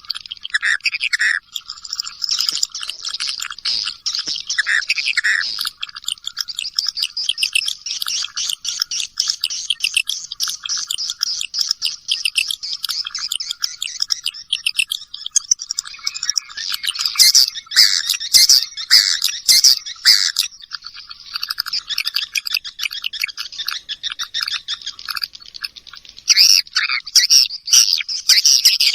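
Swiftlet lure call: a dense chorus of edible-nest swiftlets' rapid high chirps and twitters, with louder clusters of calls about two-thirds through and near the end. This is the kind of call played to draw swiftlets into a swiftlet house.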